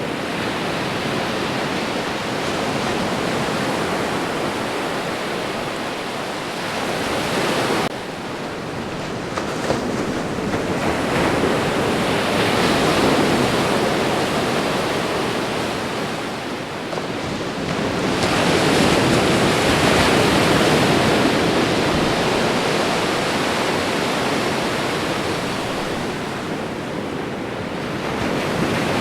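Ocean surf: waves breaking and washing in as a continuous rushing noise that swells and ebbs, with stronger surges about halfway through and about two-thirds through. The noise drops off abruptly for a moment about a quarter of the way in.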